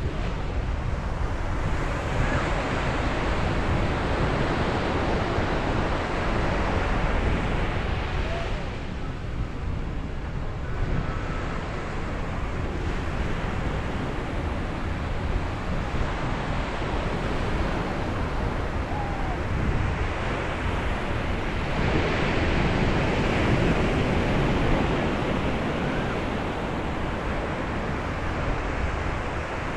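Sea surf breaking and washing in continuously, swelling louder as two bigger waves break, one early and one about three-quarters through, with a quieter lull between. Wind on the microphone adds a low rumble underneath.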